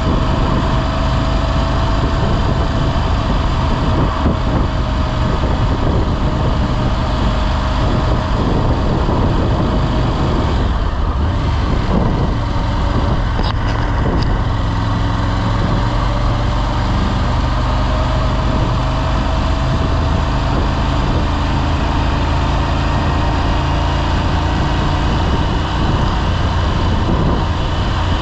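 Motorcycle engine running steadily under way, with a constant rush of road noise and small rises and falls in pitch.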